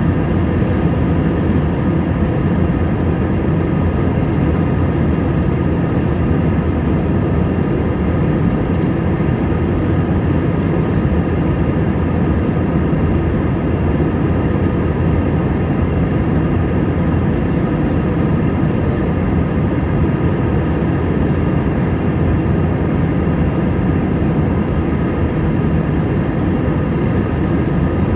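Steady in-flight noise of an Airbus A320 airliner heard from inside the cabin: engine and airflow noise, deep and unchanging, with a few faint steady tones running through it.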